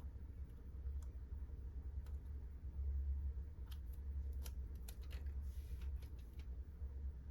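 Scattered light clicks and rustles of small carburetor kit parts, gaskets and diaphragms, being picked up and laid down on a workbench, over a steady low hum.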